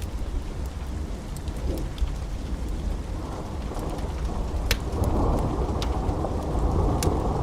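Rolling thunder rumbling low over steady rain, building from about three seconds in and louder from about five seconds on. Scattered sharp crackles of a wood fire pop through.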